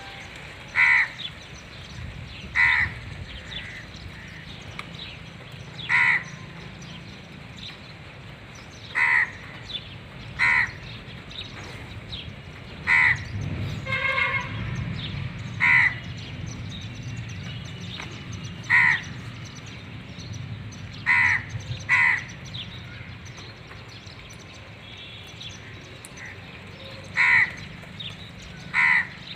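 A parrot calling: about a dozen short, loud squawks at irregular intervals, one to five seconds apart.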